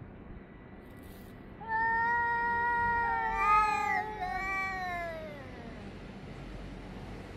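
Cats yowling at each other. About two seconds in, a long drawn-out yowl begins, and a second yowl overlaps it; the calls slide down in pitch and fade out.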